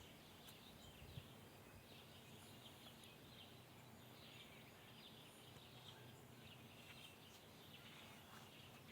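Near silence: faint outdoor ambience with distant birds chirping, and one small click about a second in.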